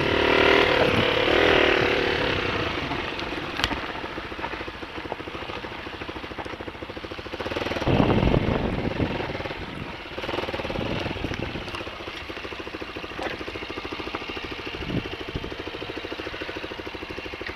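Honda XLR125 dirt bike's single-cylinder four-stroke engine running after it has been restarted. It grows fainter over the first few seconds, picks up briefly about eight seconds in and again a couple of seconds later, then runs on more quietly.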